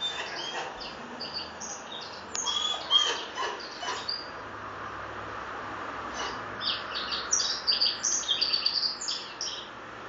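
Small bird chirping in quick, short, high notes, in two spells: the first few seconds and again from about six seconds in until near the end.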